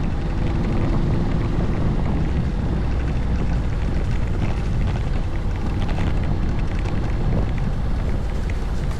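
Honda Forza 750 scooter's parallel-twin engine running steadily on the move, with wind rushing over the microphone.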